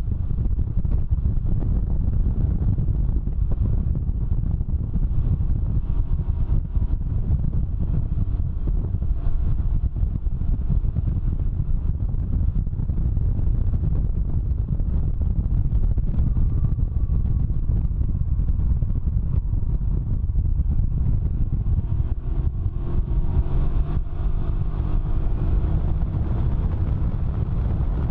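Can-Am Ryker three-wheeler riding at speed: heavy wind buffeting on the microphone over the engine running underneath, its pitch rising in the last few seconds as it accelerates.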